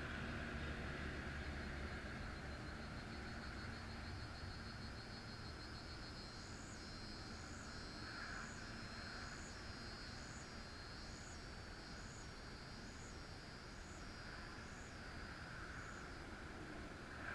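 Steady hum of distant highway traffic, with a high chirp repeated about once a second for some ten seconds in the middle.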